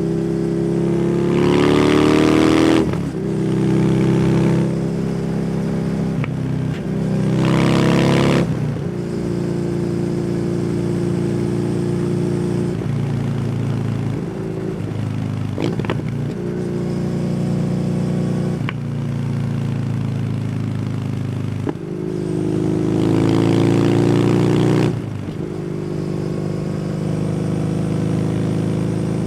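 Kawasaki W800's air-cooled parallel-twin engine through an SC Project exhaust, ridden on the road. The engine note rises under throttle three times, with brief dips at the gear changes and steady cruising in between.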